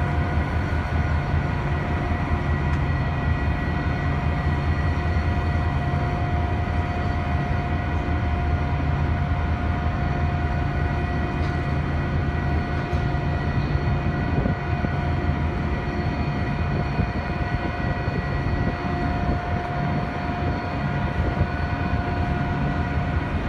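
Canadian National diesel freight locomotive and train moving past, a steady low rumble with several steady high tones over it.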